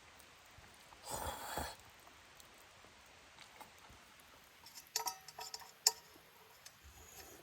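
A brief rustle about a second in, then a scatter of light clinks and knocks of camp cookware and utensils handled near the end, some with short ringing tones.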